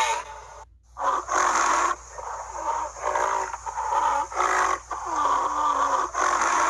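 Rhinoceros calling: a string of rough, loud calls, each half a second to a second long with short gaps between them.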